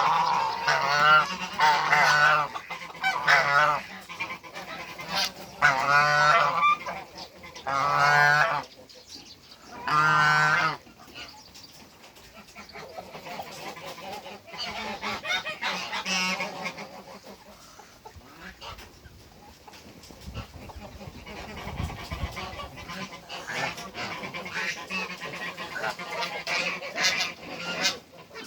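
African geese honking: a string of loud honks over roughly the first ten seconds, then quieter, more scattered calls.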